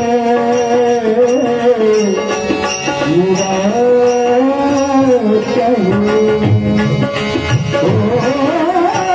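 Devotional bhajan music: a melody line sliding up and down over a hand drum and small cymbals keeping an even beat, between sung lines of the song.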